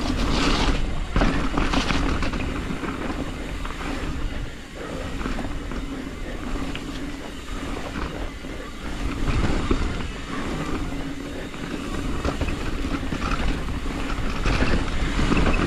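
Hardtail mountain bike riding down a muddy, rough trail: tyres rolling over dirt and roots with continuous rattling and clattering from the bike.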